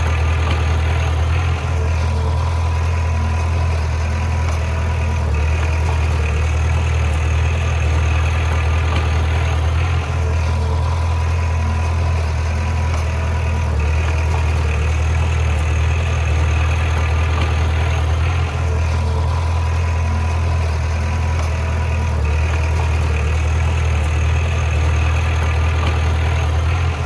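Heavy earthmoving machine's diesel engine running steadily: a deep, even drone that holds the same pace throughout.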